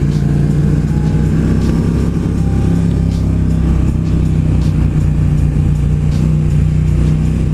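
Motorcycle engine running at a steady, unchanging engine speed while cruising at about 40 mph.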